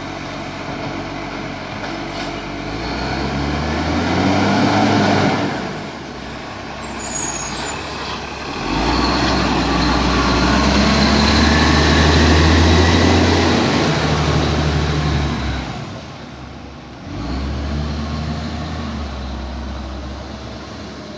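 Garbage truck diesel engine revving up and down in several surges, loudest for about six seconds in the middle, with a short air-brake hiss about seven seconds in.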